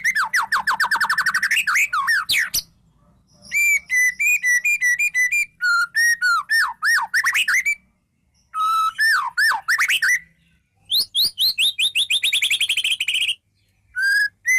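A songbird singing loud, varied phrases of rapid whistled notes, about ten a second, with short pauses between the phrases.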